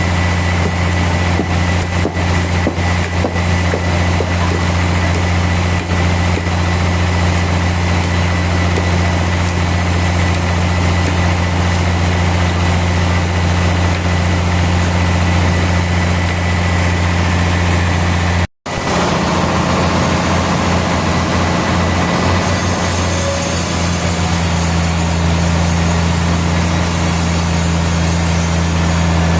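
Heavy engine-driven sawmill machinery running steadily with a deep, even drone. It breaks off abruptly for a moment about two-thirds of the way through, then carries on.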